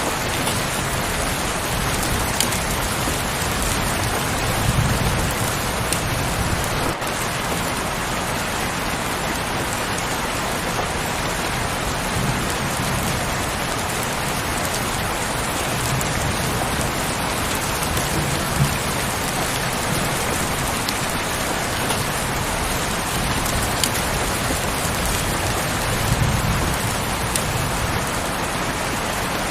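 Steady heavy rain, a dense even hiss of falling drops, with a few soft low rumbles now and then.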